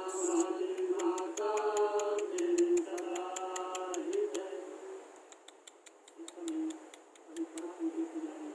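A pet parrot's voice: a few drawn-out, speech-like calls over the first four seconds or so, then a quieter stretch with a run of light, fast clicks and a faint steady high whine throughout.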